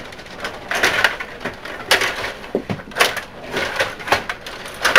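Rod table hockey game in play: an irregular run of sharp plastic clacks and knocks from the puck, the players and their rods.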